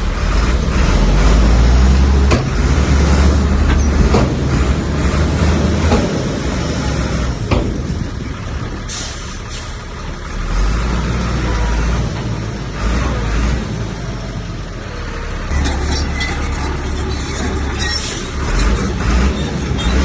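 Bulldozer's diesel engine working under load, its low rumble swelling and easing by turns, with scattered knocks and clanks.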